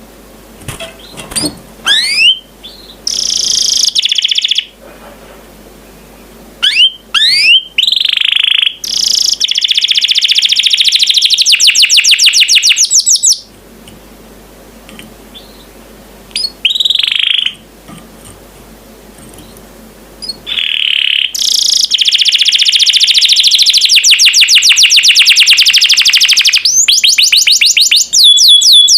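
Domestic canary singing: quick rising whistled sweeps and long, fast trills of rapidly repeated notes, delivered in phrases with short pauses between them.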